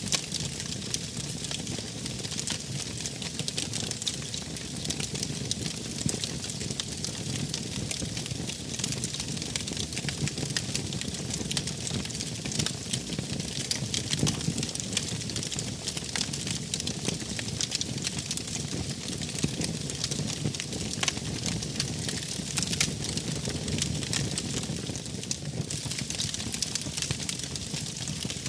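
Wood fire crackling, with constant small sharp pops over a steady low rush of burning.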